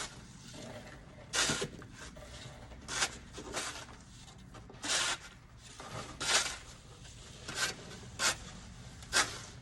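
Snow crunching and scraping in short, sharp bursts at an irregular pace of about one a second.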